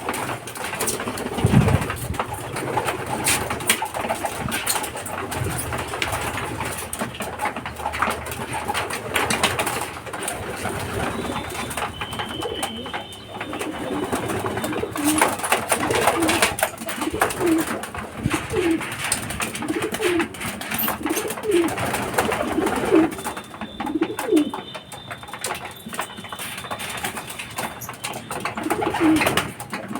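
Domestic racing pigeons cooing, a run of short low coos repeating about once a second in the second half, over scattered clicks and rustling from the birds.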